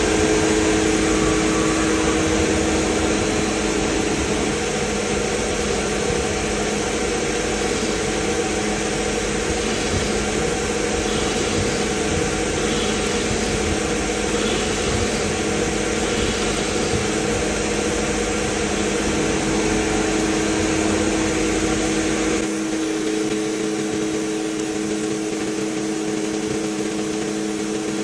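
Workshop machine motor running steadily with a constant hum over a hiss. A low rumble drops out abruptly about 22 seconds in while the hum carries on.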